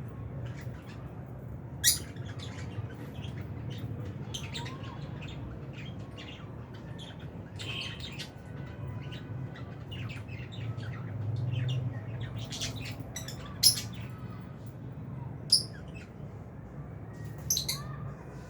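A flock of lovebirds chirping and squawking: many short, sharp calls, with four loud ones standing out about two seconds in and near the end. A steady low hum runs underneath.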